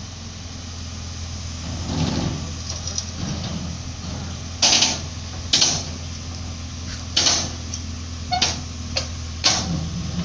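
Diesel engine idling steadily, with several short, sharp, loud noisy bursts over its last half.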